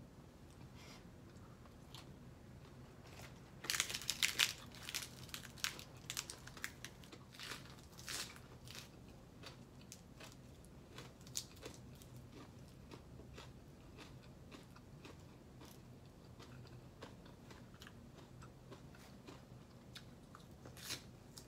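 Close-miked chewing of crunchy food, typical of shredded green papaya salad: a cluster of loud crunches about four seconds in, then scattered smaller crunches and mouth clicks.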